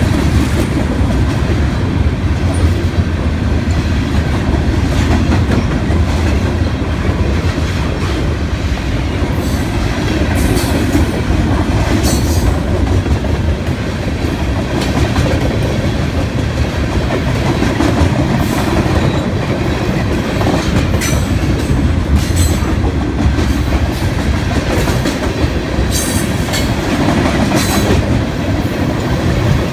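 Loaded freight cars (steel-coil cars and gondolas) rolling past at close range: a steady, loud rumble of steel wheels on rail with a clickety-clack over the rail joints. Brief high-pitched wheel squeals come in now and then, more of them in the second half.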